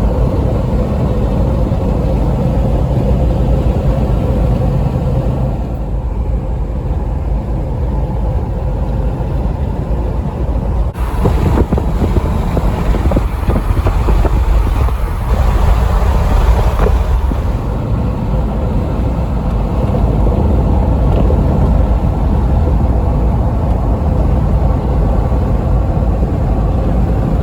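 A car being driven: a steady low rumble of engine and tyre road noise, with a stretch of louder hiss in the middle.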